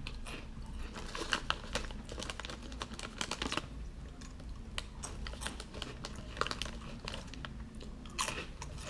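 Crunchy Cheetos being chewed: a run of irregular crisp crunches and crackles, some coming in quick clusters.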